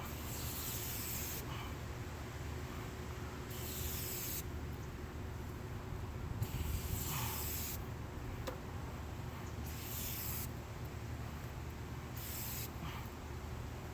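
Five separate bursts of chain degreaser sprayed onto a motorcycle chain, each a short hiss lasting up to about a second and a half, a few seconds apart.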